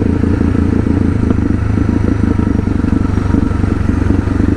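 Suzuki DR650's single-cylinder engine running at a steady speed under way, heard from the bike.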